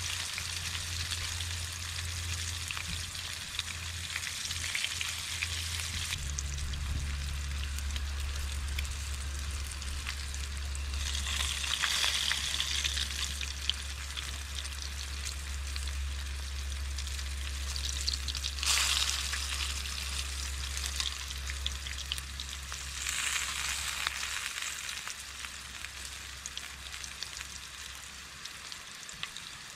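Food frying in oil in a pan on a wood stove: a steady crackling sizzle that swells louder about three times.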